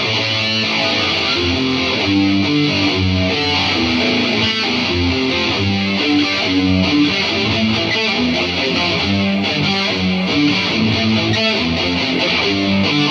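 Electric guitar played through an Atomic AmpliFire amp-modeler pedal into cheap computer speakers, running quick single-note lines with a thick, distorted tone.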